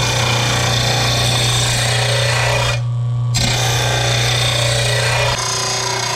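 Electric mower-blade sharpener running with a steady motor hum while the steel edge of a lawn mower blade grinds against its wheel. The grinding stops for a moment about three seconds in, then starts again.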